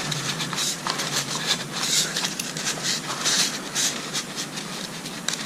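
Cloth rag rubbing and wiping over a distributor, a soft scrubbing hiss coming in uneven strokes.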